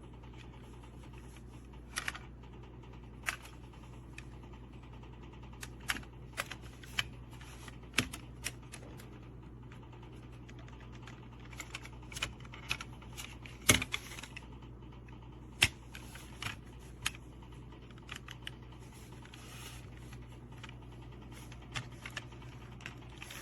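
Light clicks and taps at irregular intervals, a couple of dozen in all and loudest about two thirds of the way through, over a steady low hum: something small and hard being handled.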